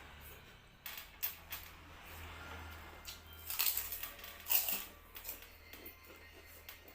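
Eating at a plate: a string of short clinks and clicks of utensils against dishware, loudest a little past the middle.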